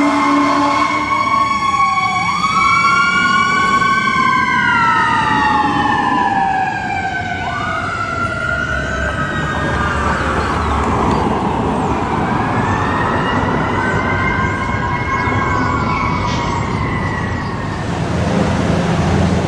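Emergency-vehicle sirens from a responding fire engine and ambulance wailing together, several tones rising and falling over each other. A steady horn note ends about a second in, and one siren sweep slides down in pitch as it passes. The sirens fade near the end.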